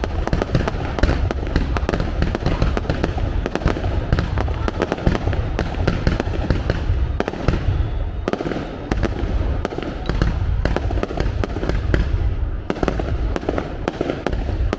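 Aerial fireworks display: a dense, unbroken barrage of bangs and crackles over a low rumble, easing briefly a few times.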